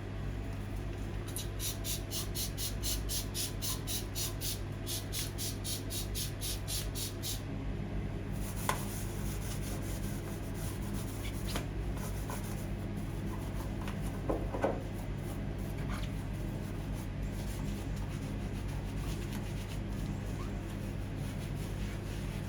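Rhythmic scrubbing during cleaning, about four rubbing strokes a second for some six seconds. Then come a few light clicks and knocks, all over a steady low hum.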